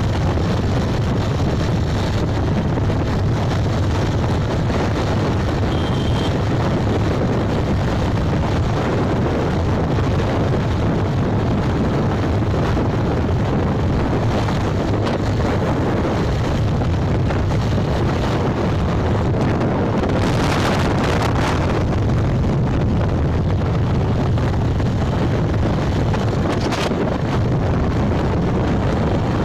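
Steady wind rushing over the microphone on a moving motorbike, with engine and road noise underneath. A brief, brighter hiss comes about two-thirds of the way through.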